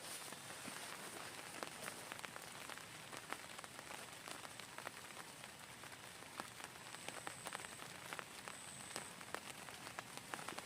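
Steady rain, with many sharp taps of separate drops striking a nearby surface through a constant hiss.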